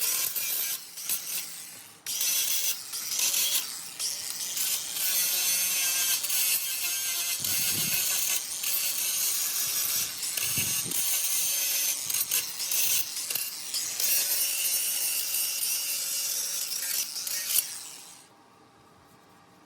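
Grinder working on metal parts to clean them up: a steady high scraping noise over a faint motor whine. It breaks off briefly about two seconds in and stops shortly before the end.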